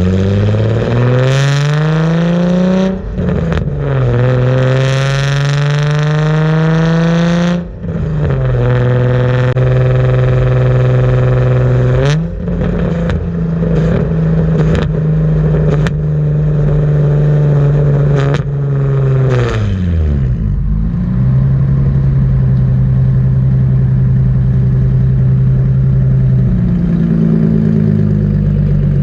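Car exhaust through a Tomei cat-back system, very loud: the engine pulls up through the gears with rising pitch, broken twice by quick gear changes, then cruises steadily. About two-thirds of the way through it drops in pitch as it slows, then settles into a steady drone again.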